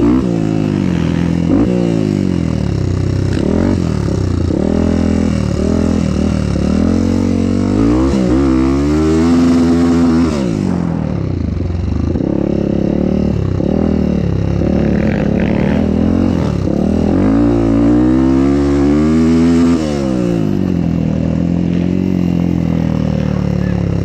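Motocross bike engine under way, its pitch climbing as it accelerates and dropping back as it eases off, several times over.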